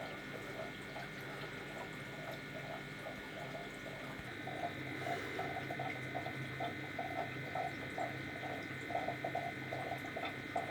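Aquarium pump humming steadily with water bubbling. About four seconds in, the hum changes and the bubbling pulses come more strongly.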